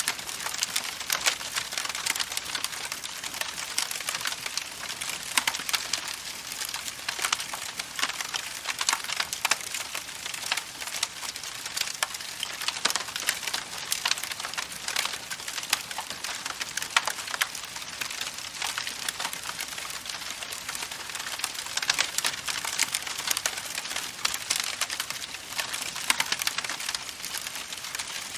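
Campfire crackling: a steady hiss of burning wood with dense, irregular pops and snaps.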